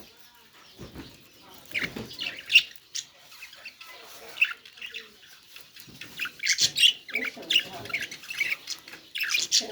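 Budgerigar chirping and squawking in quick, short high calls, coming in clusters about two seconds in and more steadily from about six seconds on.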